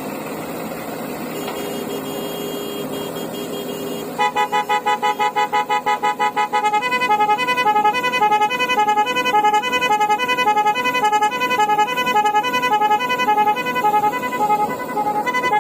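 A vehicle engine running, then from about four seconds in an electronic musical horn sounds a loud tune of rapid pulsing beeps that step between pitches in a repeating pattern.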